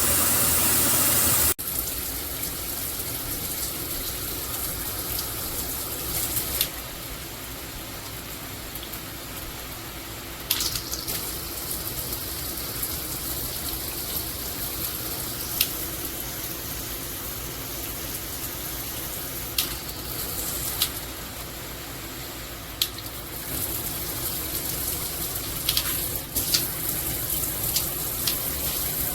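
Water spraying steadily from a shower head, an even rushing hiss with a few sharp clicks scattered through. It drops abruptly to a quieter level after about a second and a half.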